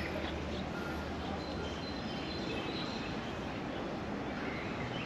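Faint bird chirps over steady outdoor background noise.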